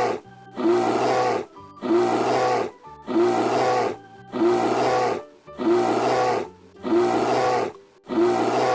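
Bear roar sound effect: the same short, loud roar repeated about once a second, over soft background music.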